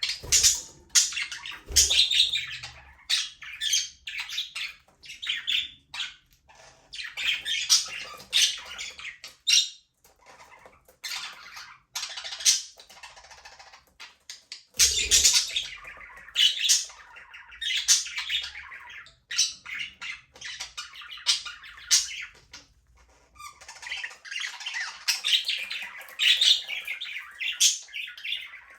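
A flock of budgerigars chirping, chattering and squawking, with many short high-pitched calls overlapping, busy nearly the whole time and thinning briefly around the middle.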